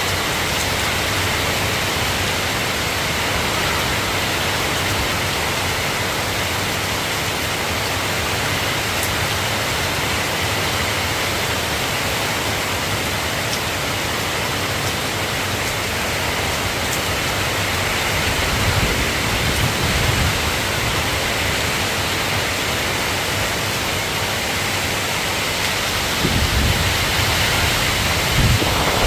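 Steady rain falling, an even hiss with no let-up, with a few soft low rumbles around twenty seconds in and again near the end.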